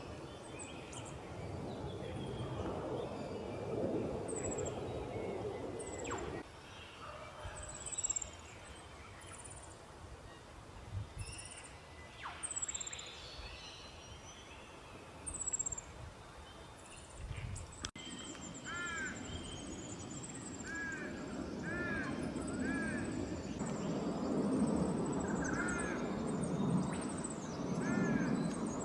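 Wild small birds calling with short, high, thin chirps again and again. From about two-thirds of the way in, a second bird adds short, repeated arching calls at a lower pitch. A low rumble of background noise runs underneath.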